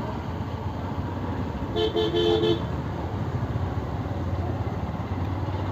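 Motorcycle riding along with steady engine and road noise; about two seconds in, a vehicle horn sounds a few quick toots on two pitches.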